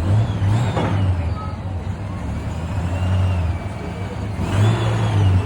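Vehicle engine running with a deep steady note, revving up briefly at the start and again near the end.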